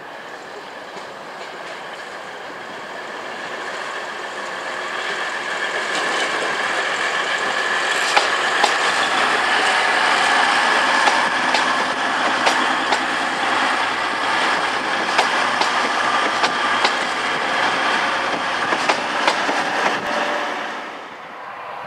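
A train passing, growing louder over the first several seconds, with its wheels clicking over rail joints and pointwork and a steady high whine. The sound falls away sharply near the end.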